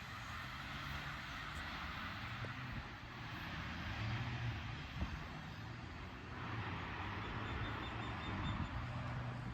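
A vehicle engine running steadily, a low hum under a continuous hiss of rolling noise.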